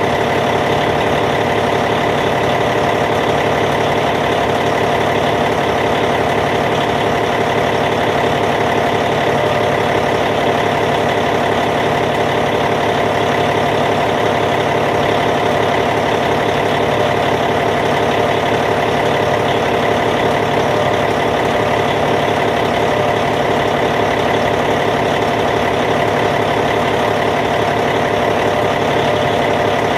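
Caterpillar C15 diesel engine of a Cat D8T bulldozer idling, a steady, unchanging run.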